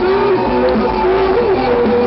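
Rock band playing live, with guitar and long held melodic notes over a dense, loud backing.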